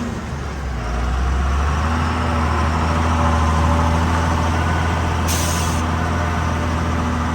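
Truck's diesel engine running steadily, growing a little louder about a second in, with a short hiss from the air brakes a little past five seconds in.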